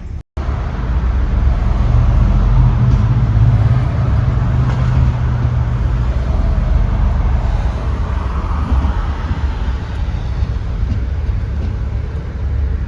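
A motor vehicle driving: steady low engine and road noise.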